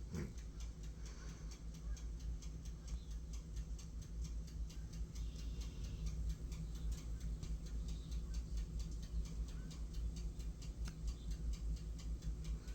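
Mallard drakes feeding, their bills making rapid, irregular clicks and snaps as they peck up food, several a second.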